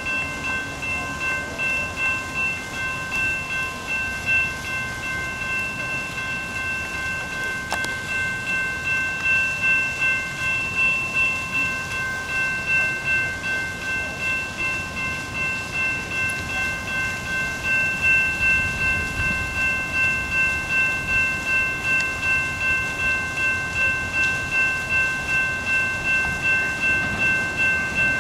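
Railroad grade crossing warning bell ringing steadily at about one and a half strokes a second, its ringing tone held under each stroke, while the crossing is activated for an approaching train.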